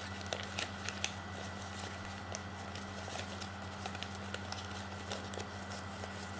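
Paper being creased and folded by hand into a petal fold: irregular small crinkles and taps, over a steady low electrical hum.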